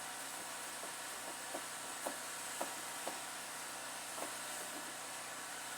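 Seasoned chicken sizzling in a hot pot, a steady hiss with small crackling pops every half second or so.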